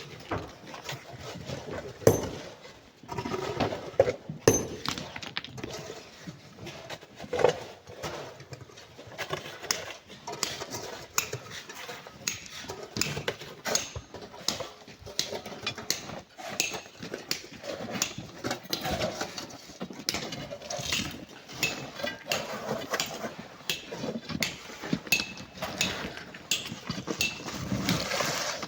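Irregular knocks and scrapes of hand tools digging into sand and stone, with a few louder single knocks.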